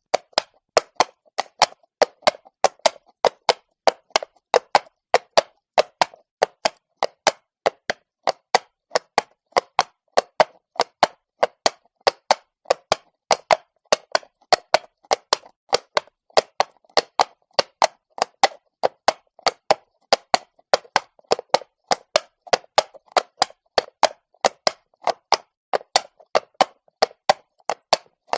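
A horse's hooves clopping on stone at a walk: an even, unbroken rhythm of sharp clops, about two to three a second.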